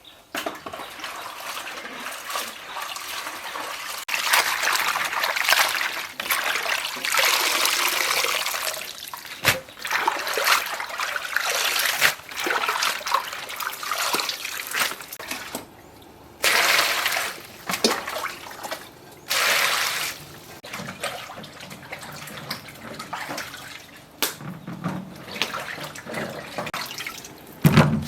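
Water pouring and splashing on and off, in several bursts with short pauses between them.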